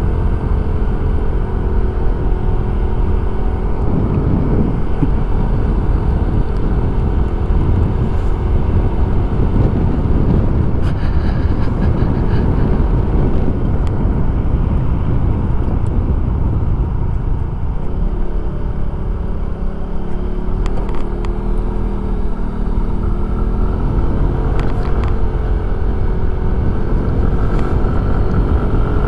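Suzuki Address 110 scooter's small single-cylinder engine running under way, heard through a helmet microphone under a heavy rush of wind noise. In the second half the engine's pitch wavers up and down as the throttle changes.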